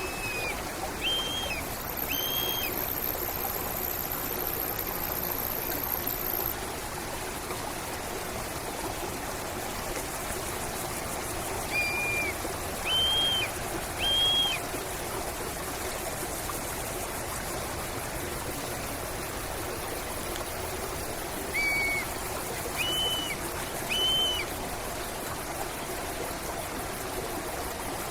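A stream flowing steadily, with a bird calling in groups of three short notes, one group near the start, one in the middle and one about three-quarters through. A thin high-pitched tone sounds for a few seconds near the start.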